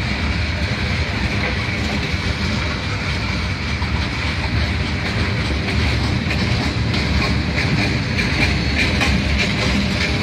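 Open-top gondola cars of a freight train rolling past. The steel wheels make a steady rumble on the rails, with clicking that grows plainer in the second half.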